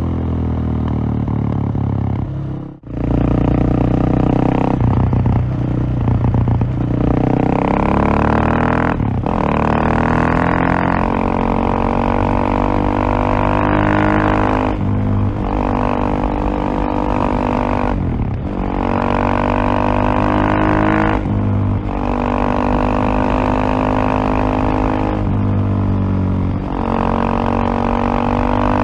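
Single-cylinder KTM motorcycle engine under way, pulling hard with its pitch rising, then holding. The throttle closes briefly every few seconds, the deepest drop just under three seconds in, and each time the engine pulls up again.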